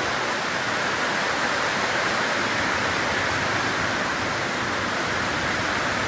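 Heavy rain falling in a steady, dense hiss, with no let-up.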